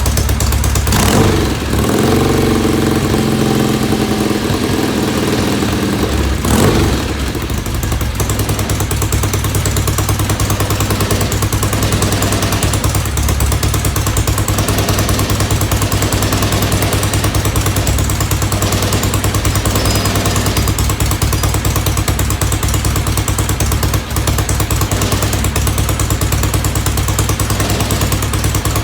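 1970 Norton Commando parallel-twin motorcycle engine running at idle. The engine note shifts for a few seconds near the start, with a sharp knock at either end of that stretch, then settles into a steady idle.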